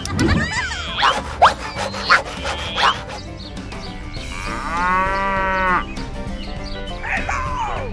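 A cow mooing once, a single drawn-out call of about a second and a half, a little past the middle. A few short rising chirps come before it.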